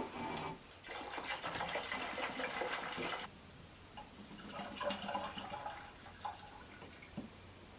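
RV waterline antifreeze pouring from a jug into a sawmill's blade-cooling water tank: a steady gush for about two seconds that cuts off suddenly, then a fainter stretch of pouring.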